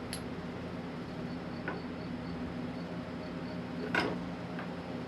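A few light clicks and one sharper tap, about four seconds in, from metal hand-plane parts being handled and fitted during reassembly, over a steady low hum. A faint, evenly spaced high chirping runs through the middle.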